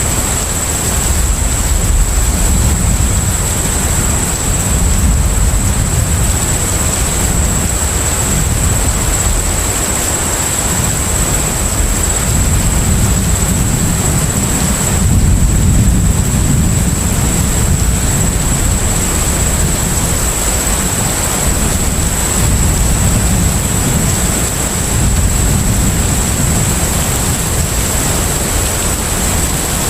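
Steady low rumble of a container ship under way, with an even rush of sea-and-wash noise over it and a thin steady high-pitched tone.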